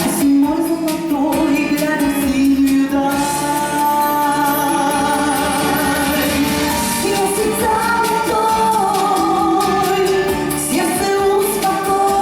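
Singing with acoustic guitar accompaniment: long held sung notes over strummed chords.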